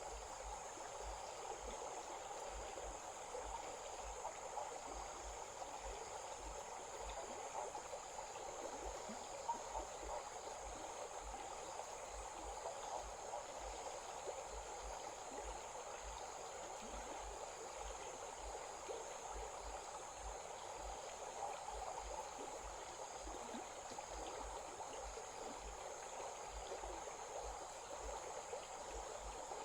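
Small stream flowing and trickling steadily, with a steady high-pitched insect drone above it.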